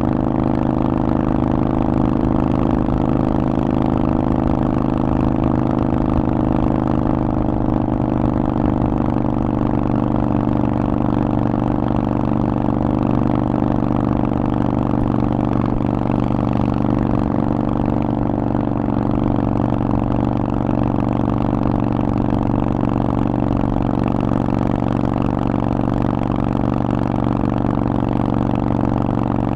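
Harley-Davidson Forty-Eight's air-cooled 1200 cc V-twin running through a Vance & Hines aftermarket exhaust, holding a steady engine speed with a deep, even note and no revving.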